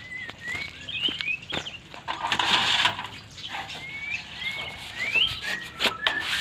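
White-rumped shama singing: a run of short, clear whistled notes sliding up and down, broken by a harsh rasping burst about two seconds in and another near the end.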